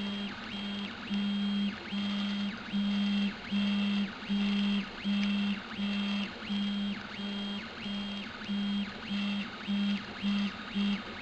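3D printer's stepper motors whining through a run of short moves, about two a second. Each move is a steady tone that starts and stops abruptly.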